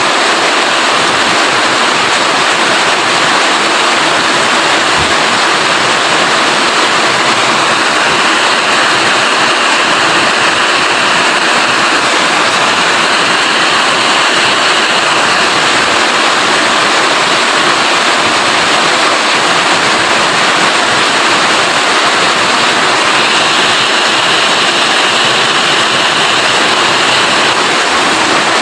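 Heavy rain falling steadily as a dense, even wash of noise.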